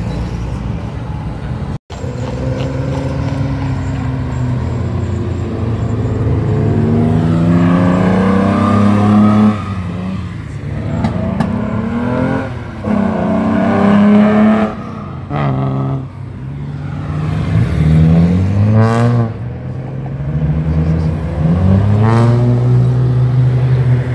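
Car engines revving and accelerating one after another, each note climbing in pitch and then breaking off, as at a car show exit. There is a sudden cut in the sound about two seconds in.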